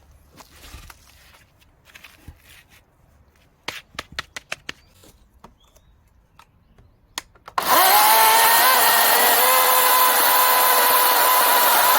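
A few handling clicks and knocks, then a battery-powered chainsaw's electric motor starts abruptly and runs at full speed with a steady high whine, ready to cut mandarin orange wood.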